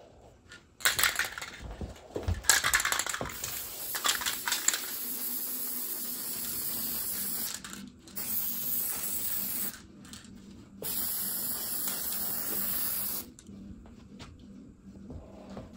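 Aerosol spray can hissing in two long bursts of about two seconds each, each starting and stopping sharply, after a few seconds of clattering and handling noise.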